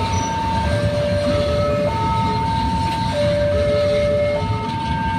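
Container freight train passing with a steady rumble of wagons on the rails. Over it, a railroad crossing's warning alarm alternates between a high and a low tone, each held about a second.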